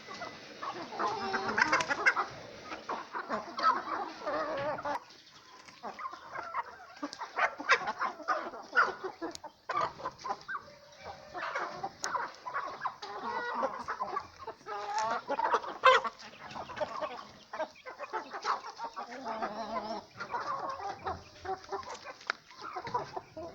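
A flock of hens and roosters clucking busily, many short calls overlapping throughout, with scattered short clicks in between.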